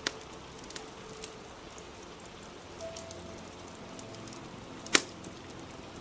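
Steady rain with the sharp pops of a crackling wood fire; one loud pop comes about five seconds in.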